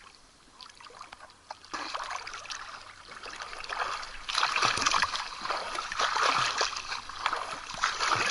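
Water splashing close by, irregular and choppy, building up and getting much louder about four seconds in.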